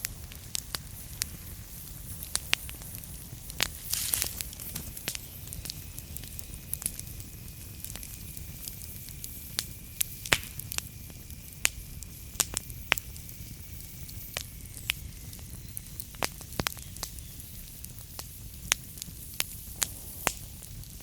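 Wood fire in a fireplace crackling, with irregular sharp pops over a steady low rumble of burning. A faint thin high whistle runs through the middle for several seconds.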